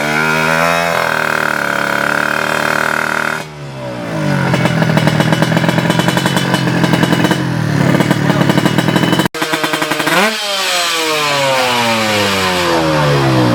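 Tuned Kawasaki Ninja two-stroke drag-bike engine revving hard, its pitch climbing and dropping again several times. A sudden cut about nine seconds in, then another run that rises and trails off.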